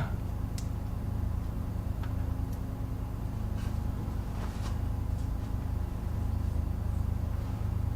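Steady low workshop hum with a few faint, light clicks of small metal carburettor parts being handled and fitted together.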